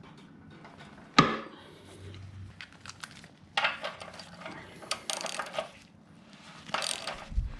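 Metal hand tools working on a motorcycle's reverse-threaded rear axle: one sharp metallic clank about a second in, the loudest sound, then bursts of clicking and rattling and a dull thump near the end.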